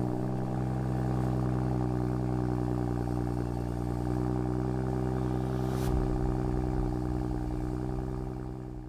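BMW M235i's N55 3.0-litre turbocharged straight-six idling steadily at about 1,000 rpm just after starting, now running the freshly installed BMS Stage 1 plug-and-play tune. It fades out near the end.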